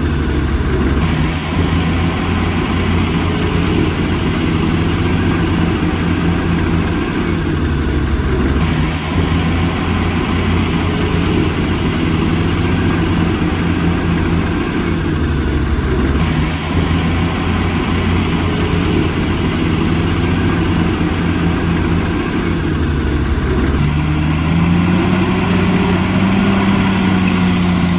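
Heavy diesel engine of a bulldozer running steadily. Its pitch dips briefly and picks back up about every seven or eight seconds, and settles slightly higher near the end.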